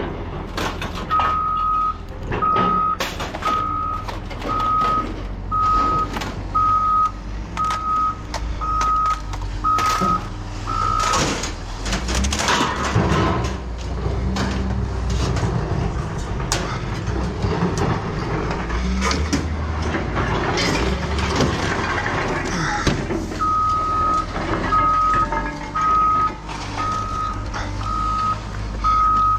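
A heavy vehicle's reversing alarm beeping about once a second over a running diesel-type engine, with scattered metal clanks. The beeping stops about a third of the way in, the engine revs up heavily in the middle, and the beeping resumes near the end.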